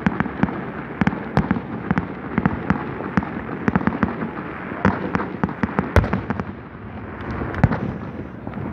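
Aerial fireworks shells bursting: rapid, continuous crackling and popping, with a louder bang about six seconds in.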